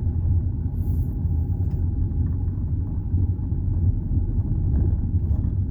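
Steady low rumble of a car driving slowly, its road and engine noise heard from inside the cabin.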